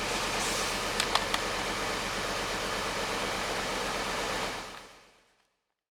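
2006 Hummer H3's 3.5-litre five-cylinder engine idling with a misfire, with a few light clicks about a second in; the sound fades out near the end.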